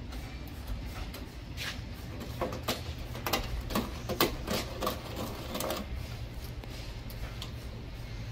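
A run of irregular sharp clicks and taps, loudest about three to five seconds in, over a low steady hum.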